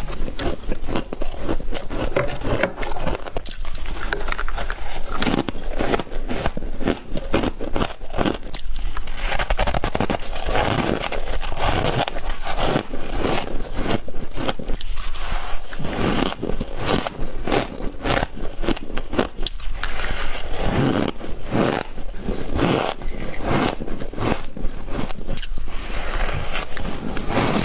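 Close-up crunching of frost being bitten and chewed: a dense, unbroken run of crisp crackles and scrapes.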